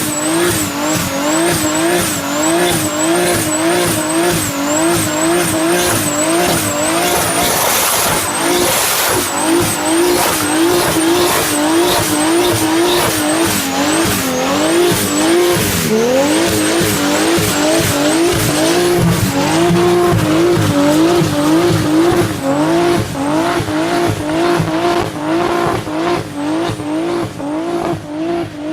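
Car engine run hard at high revs, its pitch wavering up and down about twice a second, with a high tyre squeal that wavers along with it and a fast crackle of exhaust pops.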